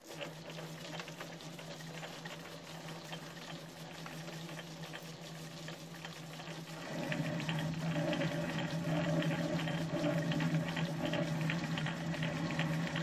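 Metal lathe running with a steady motor hum and a crackly, ticking cutting noise, which gets louder about seven seconds in.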